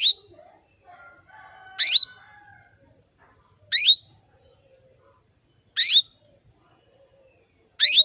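Female canary in breeding condition giving its call to draw males into song: a short upward-sweeping chirp repeated about every two seconds, five times. Between some of the calls come quick runs of about five soft high pips.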